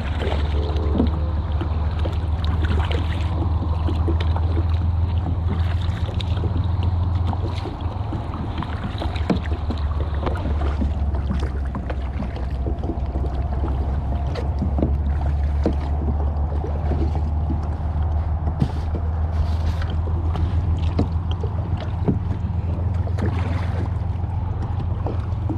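Kayak paddling on open water: scattered splashes and drips from paddle strokes over a steady low rumble.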